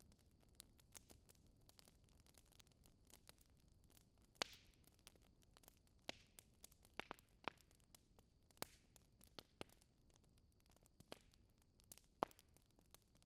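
Wood fire crackling: sparse, irregular sharp pops and snaps over a faint hiss, a few of them much louder than the rest.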